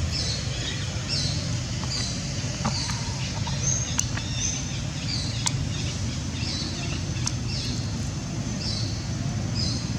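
A bird repeating a short, high, downward-sliding chirp about once a second, over a steady low rumble, with a few sharp clicks.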